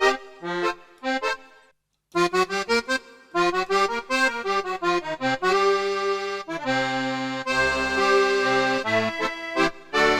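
Accordion tone on a Casio AiX-engine digital keyboard, played first as short chords. It cuts out briefly about two seconds in, then carries on with chords over a bass line and longer held chords.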